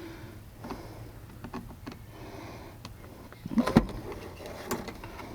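Scattered small clicks and knocks from hand work on a pickup truck's door while the broken outside door handle is being replaced, with one louder knock a little after halfway.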